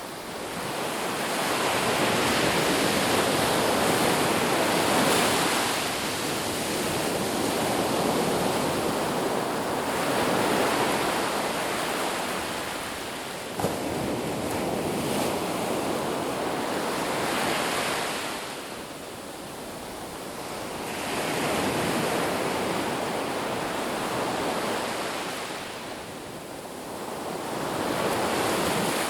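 Ocean surf on a beach, waves breaking and washing in and swelling then falling away every several seconds. There is one brief click about halfway through.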